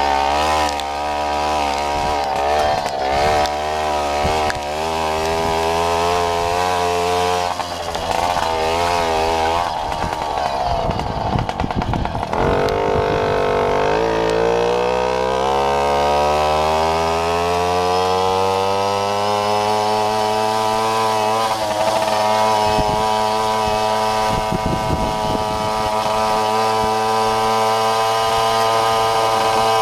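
Babetta moped's small two-stroke single-cylinder engine running under throttle. The revs waver up and down at first, dip with a rough rattling stretch about ten seconds in, then climb steadily for several seconds and hold high and steady.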